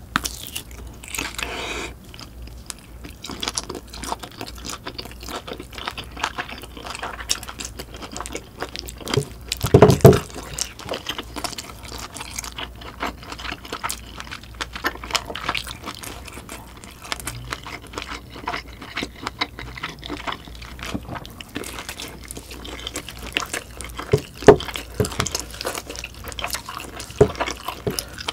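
Close-miked chewing of a mouthful of sausage, with a continuous run of small wet smacking and crunching mouth noises. One louder, deeper sound stands out about ten seconds in.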